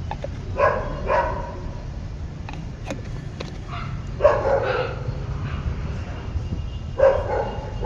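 A dog barking in short bursts: two barks about a second in, a longer run of barks around the middle, and another near the end, over a steady low rumble.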